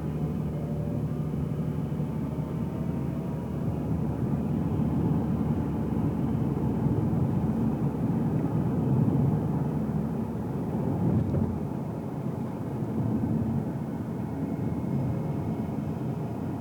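Car driving along: a steady low rumble of tyres on the road and the engine, heard from inside the cabin, rising and falling gently with no sudden events.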